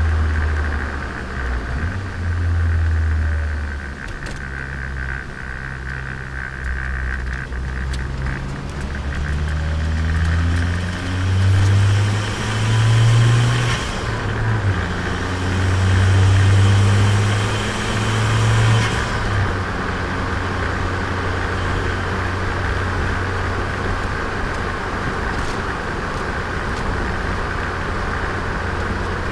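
Turbocharged Nissan Micra engine heard onboard while driving: it pulls up through the revs from about nine seconds in, drops briefly, then pulls hard again with a hiss, and settles to a steady cruise for the last ten seconds.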